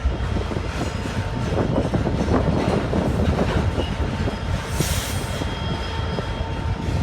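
Freight train cars rolling past, the wheels making a steady rumble with a run of irregular knocks over the rails. A faint steady high whine runs under it, and a brief hiss comes about five seconds in.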